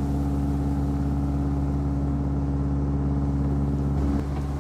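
Narrowboat engine running steadily as the boat cruises: a constant low drone, with a brief change in its note about four seconds in.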